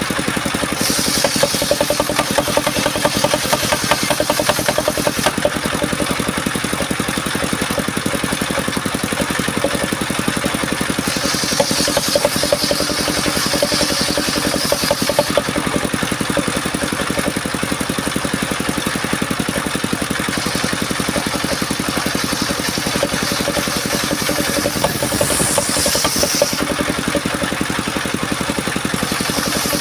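Engine of a mobile circular sawmill running steadily, with a higher hiss coming in three times.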